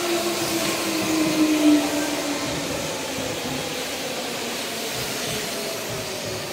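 A Hanshin 5001-series local train pulling in along the platform: wheels running on the rails, with a motor whine that slowly falls in pitch as the train brakes. It is loudest about one and a half seconds in.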